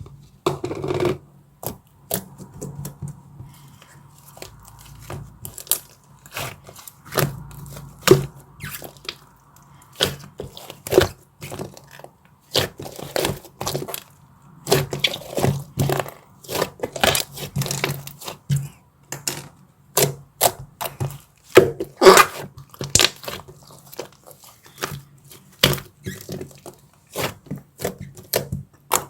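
Dark chocolate and its wrapper being handled and broken: irregular snaps, crackles and scrapes, some sharp and loud, over a faint steady hum.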